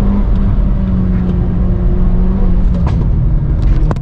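Hyundai Veloster N's turbocharged four-cylinder engine pulling hard at a fairly steady pitch, with heavy road rumble. A few sharp knocks come near the end.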